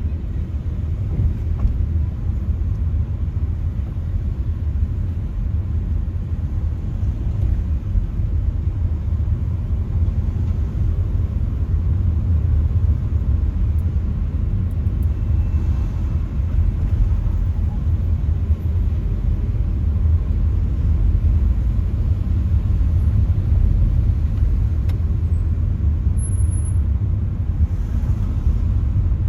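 Steady low rumble of vehicle and road noise, with no distinct events standing out.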